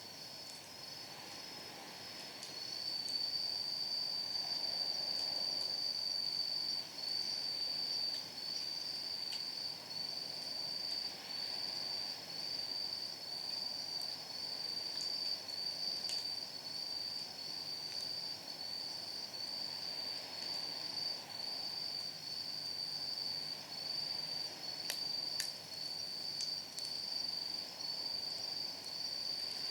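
A night insect singing a steady, high-pitched trill in repeating phrases of about a second, which grows louder about three seconds in. A few sharp pops of firewood crackling in a fire are heard, one midway and a couple near the end.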